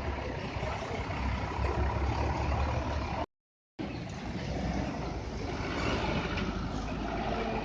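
Truck engine running steadily at low speed with a low rumble. The sound drops out completely for about half a second a little past three seconds in.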